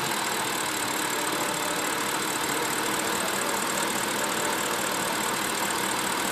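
BMW N62TU V8 engine idling steadily and warm. The idle is slightly rough because a newly fitted crankcase vent valve leaks externally: crankcase vacuum is 30 mbar instead of the specified 40.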